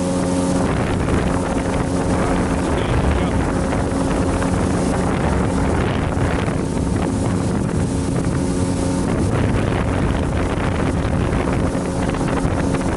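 Motorboat engine running steadily under way, with wind buffeting the microphone; gusts at times drown out the engine's hum.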